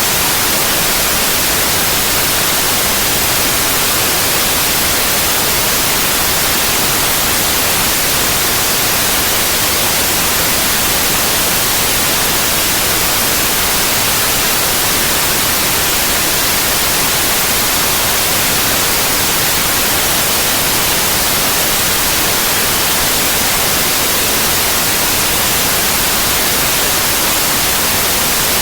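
Synthetic white noise: an even, unchanging hiss, brightest in the high frequencies.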